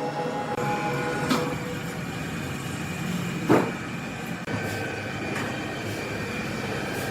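Sawmill machinery running steadily with a metallic whine, and a sharp knock about three and a half seconds in.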